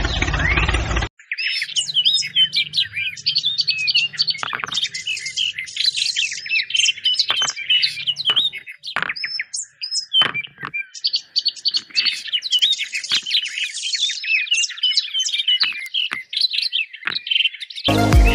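Many small birds chirping and twittering in a dense, continuous chorus of quick rising and falling notes. A second of music before it cuts off abruptly.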